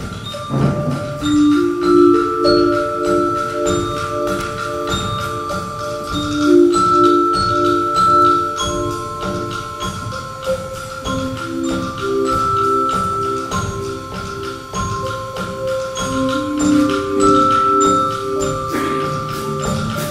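Youth percussion ensemble playing, led by mallet percussion: repeated pulsing chords in the middle register, with held high notes above and a dense run of small clicks throughout.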